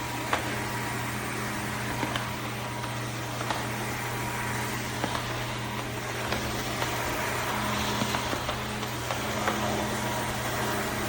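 Dreame H12S wet-dry vacuum running while sweeping and mopping: a steady motor hum with a fixed low tone and a higher whine, with occasional small clicks.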